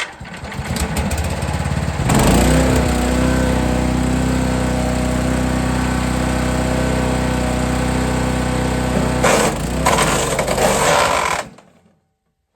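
Forest Master FM8DD wood chipper's engine comes up to speed and runs steadily. Near the end, rougher crunching noise from branches being fed through, then the machine cuts out suddenly, stalled by a branch.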